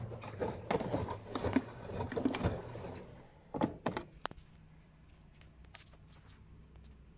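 LG F12B8WDS7 front-loading washing machine on its delicate wash: water and laundry sloshing in the turning drum, which stops about three seconds in with a few knocks, leaving a faint steady hum.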